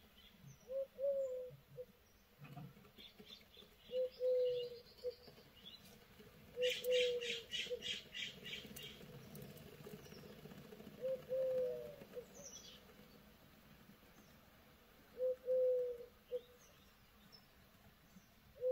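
Bird calls: a low call, repeated every few seconds, with a quick run of higher chirps about seven seconds in.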